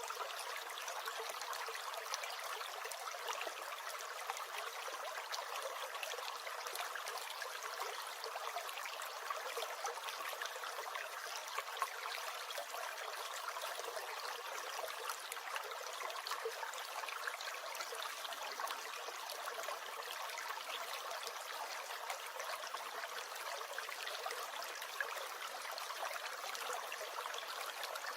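A small stream gurgling and trickling steadily.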